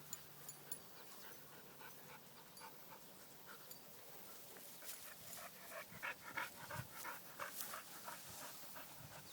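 A dog panting, faint at first and stronger and quicker in the second half, several short breaths a second.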